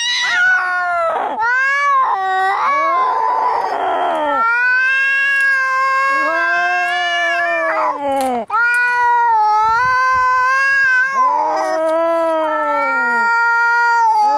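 Angry cat yowling in long, drawn-out caterwauls that waver up and down in pitch, as in a cat fight. About three seconds in there is a short, harsh, raspy stretch.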